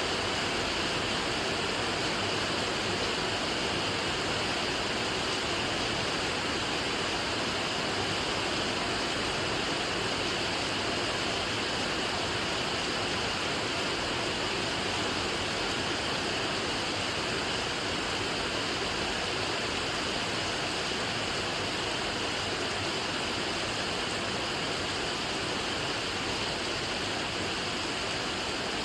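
Steady rain, a dense even hiss of raindrops with no single drops standing out.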